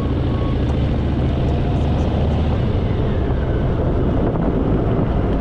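Harley-Davidson Fat Boy's V-twin engine running steadily while riding, with constant road noise.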